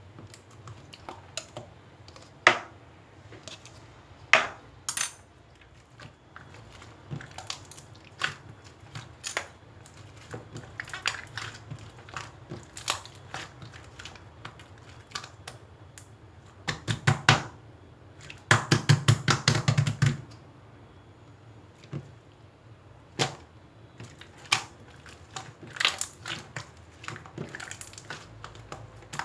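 Irregular clicks and taps of small hard objects being handled, with a short run of rapid clatter about seventeen seconds in and a longer one soon after.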